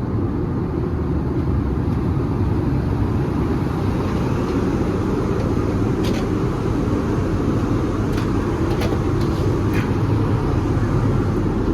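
Steady in-flight cabin noise of an Airbus A320neo in cruise: a low, even rush of engines and airflow. A few faint clicks sound in the second half.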